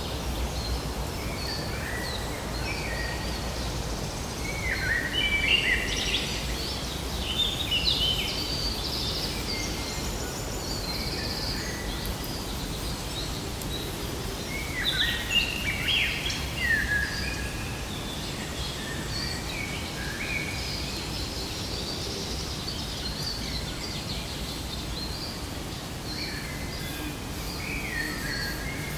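Several birds singing and chirping over a steady background noise with a low rumble. The song is loudest in two bursts, about five and about fifteen seconds in.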